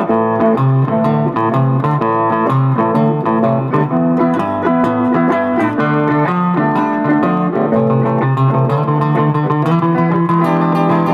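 Blues music played on guitar, plucked notes over a bass line, settling onto a held low note near the end.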